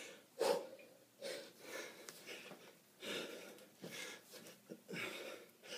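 A man breathing hard from kettlebell exertion, with a heavy, rasping breath about once a second.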